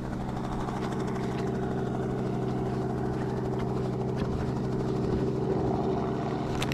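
Ski-Doo Expedition Sport snowmobile with the 900 ACE four-stroke engine, running steadily at a constant pitch. A sharp knock comes at the very end.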